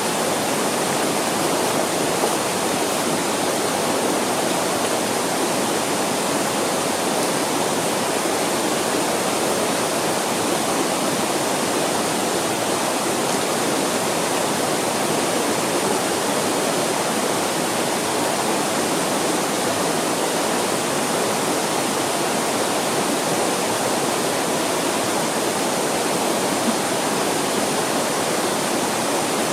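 Mountain stream rushing, a steady roar of water without a break.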